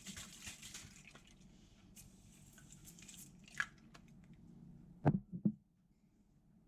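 Quiet household handling sounds with dripping and soft squishing and a few light clicks. Two or three louder knocks come about five seconds in.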